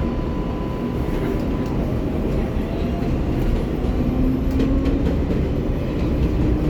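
R188 subway car running between stations, heard from inside: a steady rumble of wheels on the rails, heaviest in the low end, with faint steady tones over it.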